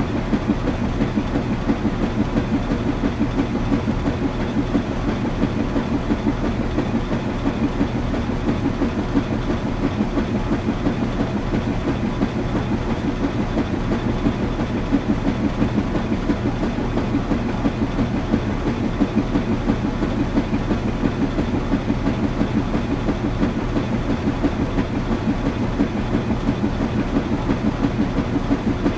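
Washing machine running: a steady low mechanical hum with a fast, even rhythmic pulsing.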